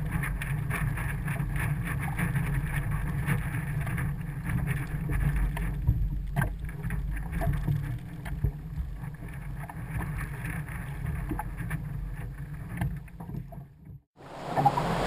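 Kayak under way at sea, heard through a camera housing: a steady low rumble of water and wind with a few short knocks. It drops out about fourteen seconds in.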